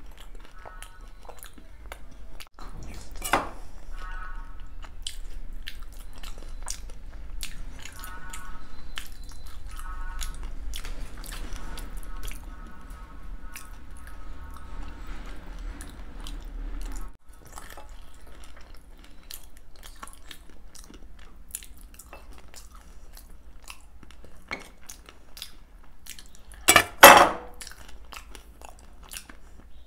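Close-miked eating of dahi golgappa: wet chewing and mouth smacks with many small clicks, and now and then a metal spoon clinking on a steel plate. One much louder burst near the end.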